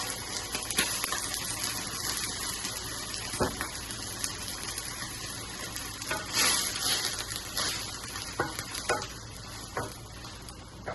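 White wine sizzling in a hot pan of olive oil, garlic and onions as it deglazes, with a utensil stirring and tapping against the pan several times. The sizzle swells louder about six seconds in.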